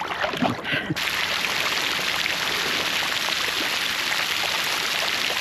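A push-button pool water feature switched on about a second in, starting a sudden, steady rush of gushing, splashing water.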